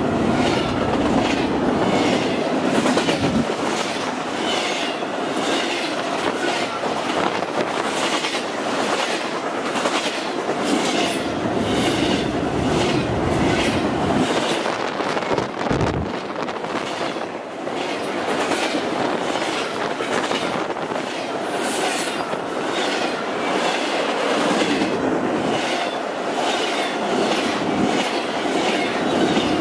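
Double-stack intermodal well cars of a freight train rolling past close by, steel wheels clicking over the rail in a steady rhythm of about one to two clicks a second over a continuous rolling rumble, with a faint steady whine underneath.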